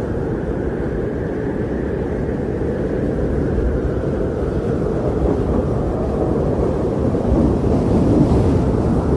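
Strong blizzard wind blowing, a steady low rushing that swells a little near the end.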